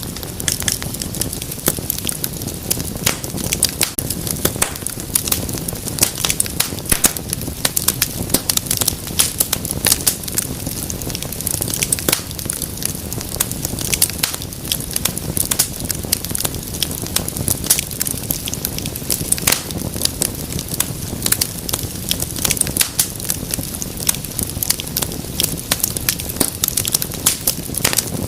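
Wood fire burning in a fireplace, crackling and popping in a dense, irregular stream of sharp snaps over a steady low rumble of flame.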